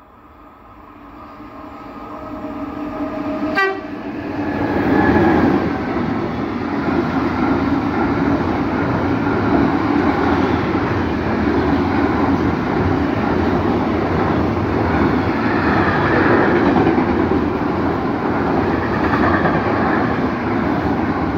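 An intermodal freight train hauled by a BB 27000 electric locomotive approaches and runs past close by. A steady tone grows louder as it nears, and a short sharp knock comes about four seconds in. Then the loud, steady rumble and clatter of container and tank wagons rolling past fills the rest.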